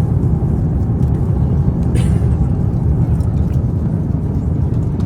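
Steady low rumble of an Airbus A350-900's cabin in cruise flight: engine and airflow noise heard from the economy cabin. A brief click about two seconds in.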